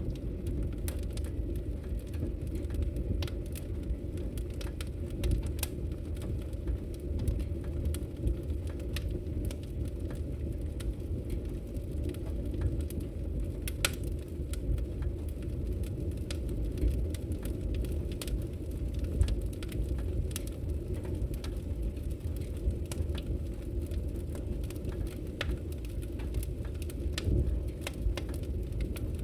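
Wood logs burning in a fireplace, crackling with many irregular sharp pops over a steady low rumble.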